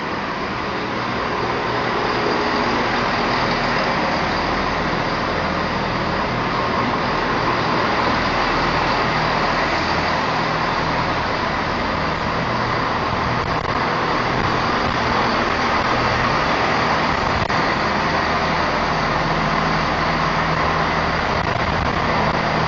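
Diesel train engines running steadily, a low throbbing hum under broad mechanical noise that stays loud throughout.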